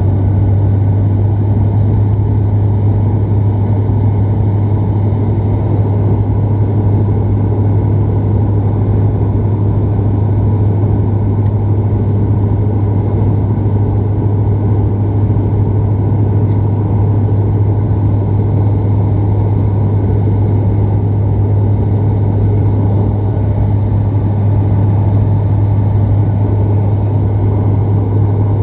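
Cabin noise inside a Bombardier Dash 8 Q400 turboprop in flight: a loud, steady low propeller drone over the rush of the engines and airflow.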